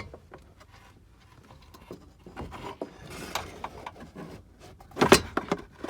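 Parts being handled: scattered light knocks and rubbing or scraping, with a louder cluster of knocks about five seconds in.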